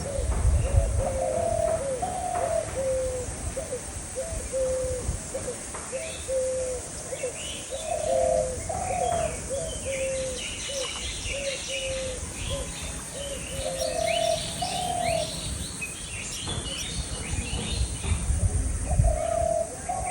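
A bird repeats a low calling phrase about four times, each time two longer, higher notes followed by a run of short notes stepping down in pitch. Small birds chirp and twitter over it from about ten seconds in, and low rumbles come at the start and near the end.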